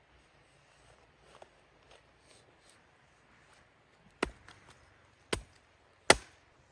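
Faint rustling, then three sharp knocks about a second apart, the last the loudest.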